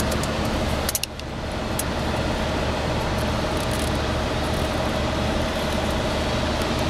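Steady wind and road noise inside the cabin of a Fiat Doblò on the move with its windows shut, the wind noise the owner is complaining of. About a second in there are a couple of clicks and a brief dip, after which a faint steady whistle-like tone runs under the noise.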